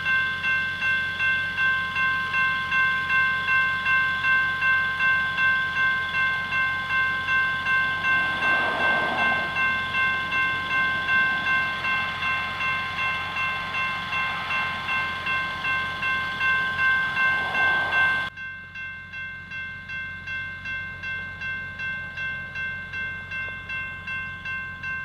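Railroad grade-crossing bell ringing steadily, about two strokes a second, while a freight train passes. The overall sound drops suddenly about 18 seconds in, and the bell goes on more quietly.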